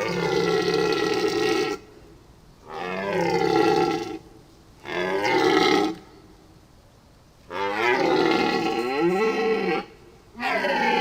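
An animal calling five times in a row, each call a pitched cry of one to two seconds, several falling in pitch at the end.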